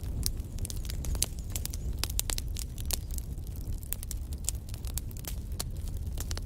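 Wood fire in a fireplace crackling, with irregular sharp pops and snaps from the burning logs over a steady low rumble of the flames.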